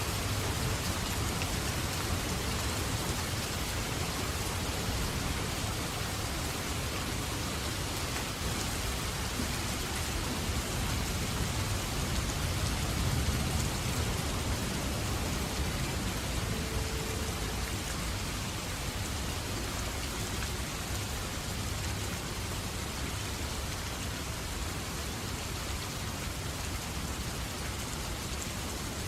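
Steady, even rainfall with a constant low rumble underneath.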